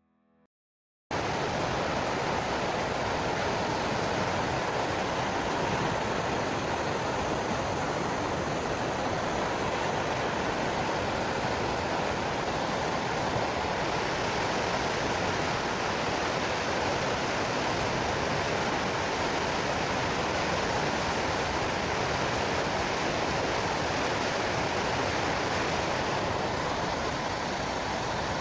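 Steady rushing of flowing river water, an even wash of noise that cuts in suddenly about a second in.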